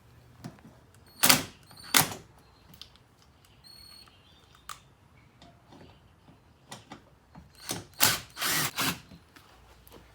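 A power driver spinning out screws in short bursts: two quick runs about a second apart early, then a cluster of several runs near the end, with small clicks and tool handling in between.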